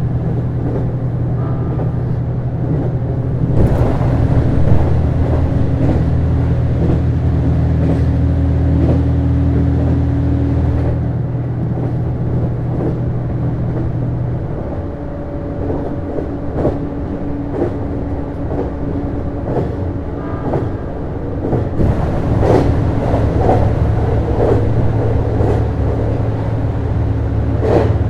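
Interior running sound of a JR East HB-E210 series hybrid diesel railcar under way: a steady low hum from its Komatsu DMF15HZB-G diesel engine drive over track rumble, with irregular clicks from the wheels on the rails. The low hum drops away about halfway through and comes back near the end.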